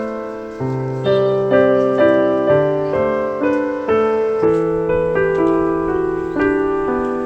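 Background piano music, a gentle melody of sustained notes struck about twice a second.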